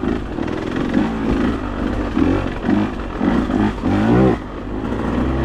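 Off-road vehicle engine revved in repeated short throttle bursts in second gear, its pitch rising and falling about five times, then dropping back to a steadier, lower run near the end. The throttle bursts spin the tyres on the slick, wet ground.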